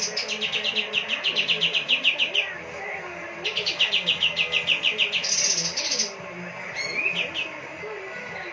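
Kapas tembak songbird singing: two fast rhythmic trills of about eight notes a second, each lasting about two seconds, broken by short higher-pitched calls, with a brief call near the end.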